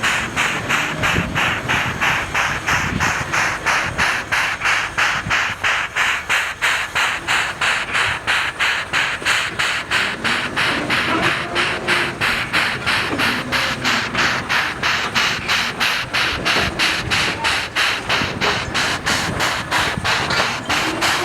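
JS-class 2-8-2 steam locomotive working, its exhaust beating evenly at about three hissing chuffs a second.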